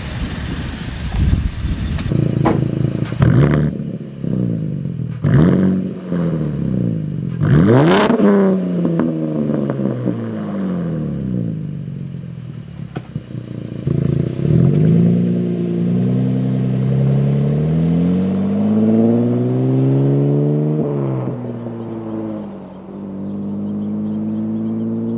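V6 Chevrolet Camaro engine with its muffler deleted, revving hard with several sharp loud blasts. It then accelerates, the pitch climbing and dropping three times as it shifts up through the gears, and settles into a steady drone near the end.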